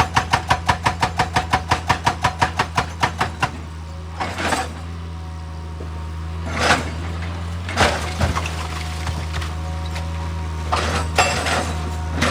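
Excavator's diesel engine running steadily, with a rapid, even hammering of about five blows a second that stops about three and a half seconds in. After that come a few separate crunching, scraping knocks of rock or metal.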